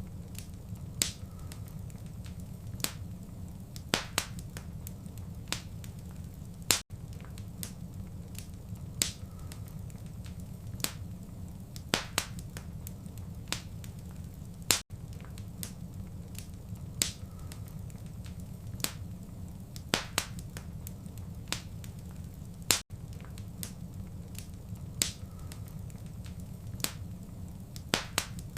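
Wood fire crackling in a fireplace: sharp pops and snaps every second or so over a steady low rumble of the flames, with a brief dropout about every eight seconds.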